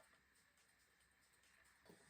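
Near silence: faint room tone, with a brief soft rustle or tap just before the end.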